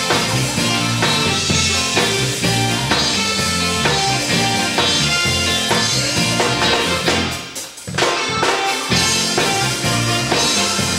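Gospel band music with a drum kit keeping the beat under a steady low bass line. About two-thirds of the way through, the bass and drums drop out for roughly a second before the band comes back in.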